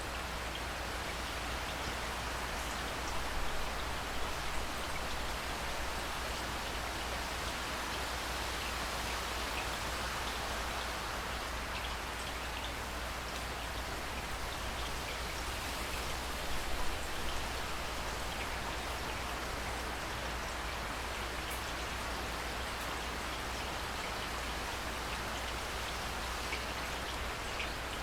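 Steady rainfall, an even hiss with scattered individual drops ticking on a surface, briefly a little louder about three seconds in and again around seventeen seconds.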